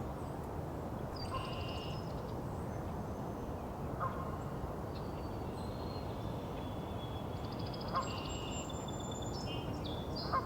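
Several songbirds singing in turn: high thin whistles and quick runs of repeated notes, with a few short sharp calls every few seconds, over a steady low background rumble.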